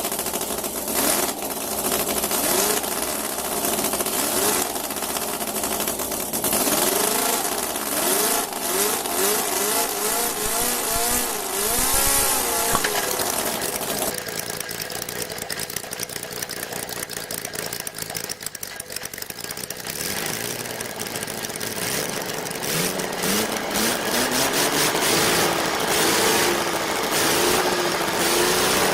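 Small model engines running and being revved, the pitch rising and falling over and over. The sound changes about halfway through, as if a different engine takes over, then the revving picks up again near the end.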